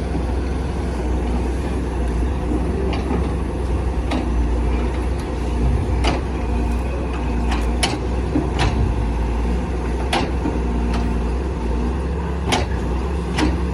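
Heavy diesel excavator engine running steadily, with about eight sharp knocks scattered through, as from stone or metal striking.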